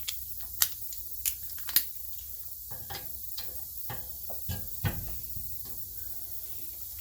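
Hand tools clinking against metal: a socket and extension being handled and fitted onto the rear hub's 14 mm bolts, with three sharp clicks in the first two seconds and softer, scattered knocks after.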